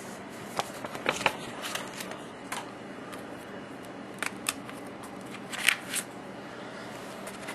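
Paper inserts and a plastic disc case being handled: scattered short rustles and clicks, about ten in all, the sharpest about two-thirds of the way through.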